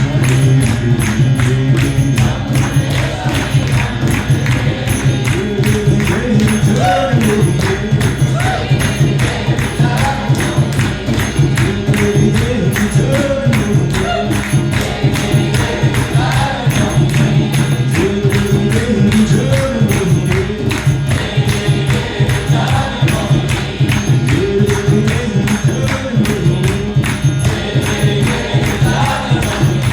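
Kirtan: voices chanting a devotional mantra over a steady low drone, with a fast, even beat of jingling hand percussion.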